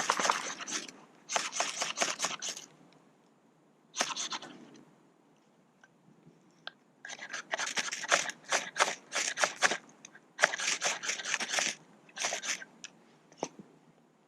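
Ferro rod being scraped hard with a striker, in about seven runs of rapid rasping strokes with short pauses between, throwing sparks onto birch bark tinder that does not catch.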